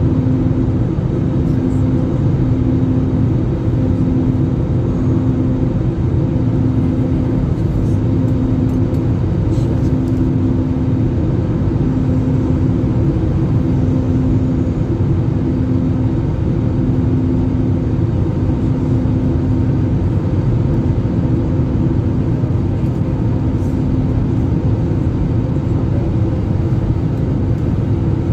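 Airliner cabin noise in flight: the steady rush of engines and airflow, with a low hum that pulses on and off at an even pace.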